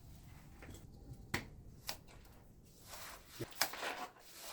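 A few separate sharp clicks or taps, the loudest about three and a half seconds in.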